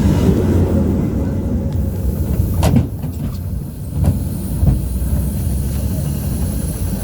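City bus running, heard from inside the cabin: a steady low engine and road rumble, with a sharp clunk a little under three seconds in and two lighter knocks about a second and a second and a half later.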